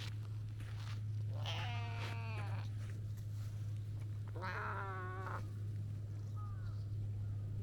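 Cat meowing: two drawn-out meows of about a second each, a few seconds apart, then a short faint one, over a steady low hum.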